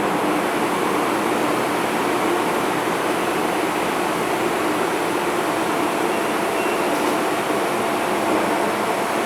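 MTR M-Train metro car running at steady speed, heard from inside the carriage: an even rumble of wheels on rail and traction equipment with a faint steady hum, no acceleration or braking changes.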